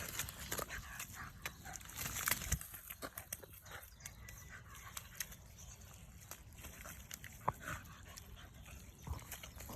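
A Tibetan Terrier puppy playing in a mud puddle: irregular wet slaps and splashes with snuffling, busiest about two seconds in.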